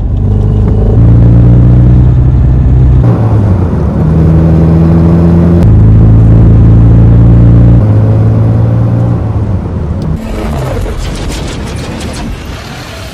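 Classic Rover Mini's engine running on the move. It holds steady revs that shift up and down in steps, then grows quieter over the last few seconds.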